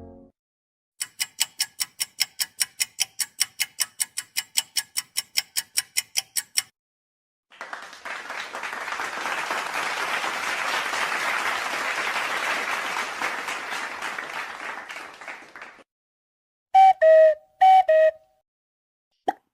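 A run of separate sound effects: an electronic alarm-clock beep repeating about four times a second for over five seconds, then applause that swells and fades for about eight seconds, then three short falling tones near the end.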